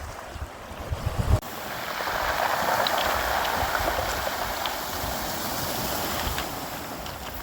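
Sea surf washing onto a beach: a broad hiss of water that swells about two seconds in and slowly eases. Wind buffets the microphone in the first second or so.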